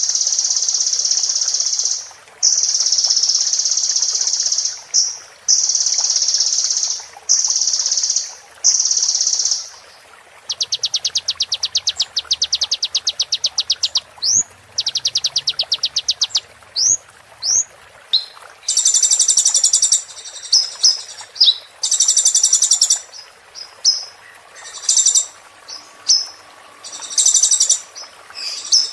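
Sunbird song played as a training recording: long, high buzzy trills in phrases about two seconds long with short breaks. About ten seconds in it changes to a fast rattling trill and sharp upslurred notes, and from about two-thirds of the way through come rapid bursts of high chattering song.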